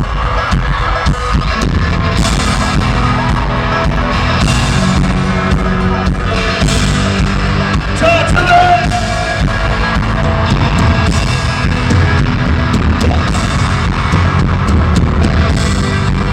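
Live country-rock band playing loud and steady, with drums and electric guitar, heard through a phone or camera microphone in a concert arena.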